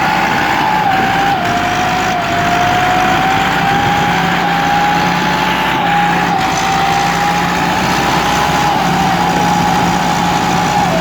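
Fiat tractor's engine running steadily, with a thin high whine over it that drifts slightly up and down in pitch.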